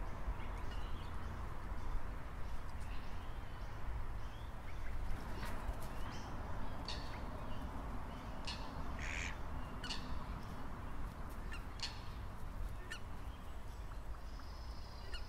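Birds calling: scattered short calls and chirps, a longer call about nine seconds in, over a steady low rumble.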